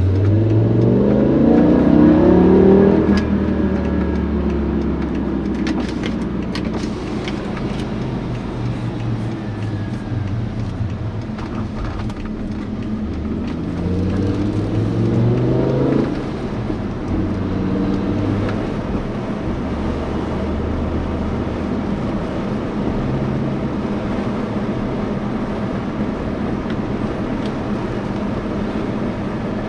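BMW M5 E60's 5.0-litre V10 engine under hard acceleration, its pitch rising steeply for the first few seconds and then dropping at a gear change. A second, shorter pull rises around the middle and drops again, after which the engine runs steadily.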